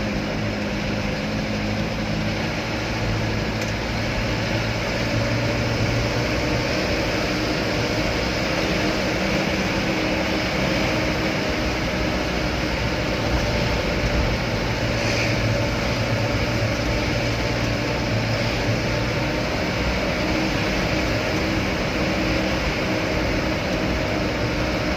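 Loaded truck on the move: a steady engine drone with road noise, the engine note shifting a little now and then.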